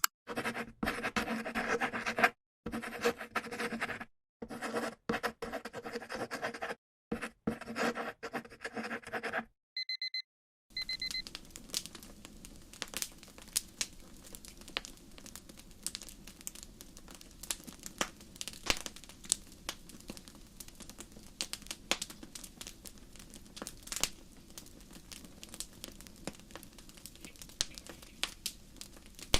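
Fire crackling: a steady low hiss with frequent sharp pops and snaps. Before that comes a louder stretch of noise that keeps cutting in and out, ending in a short run of high electronic beeps about ten seconds in.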